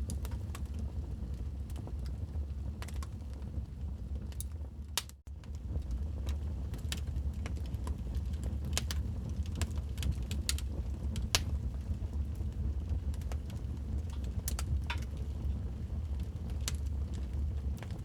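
Fire crackling in a fireplace: scattered sharp pops and snaps over a steady low rumble. The sound drops out briefly about five seconds in.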